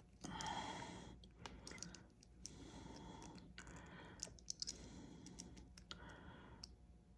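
Faint clicking of small plastic action-figure parts being handled and fitted together, with a few audible breaths.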